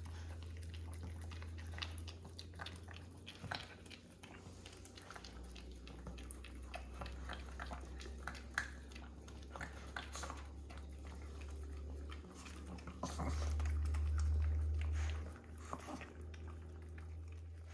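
Small wet mouth clicks and smacks from Maltese dogs licking and chewing, scattered and irregular, over a low steady hum; the hum swells for a couple of seconds in the second half.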